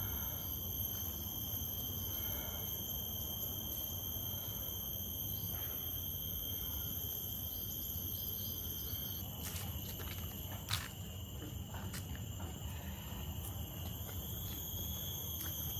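Steady, high-pitched insect chorus: several constant whining tones held without a break, over a low rumble. A single sharp click about eleven seconds in.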